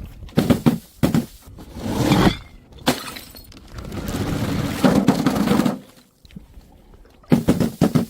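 Glass bottles breaking: several sharp impacts, about five, with stretches of crunching and shattering between them.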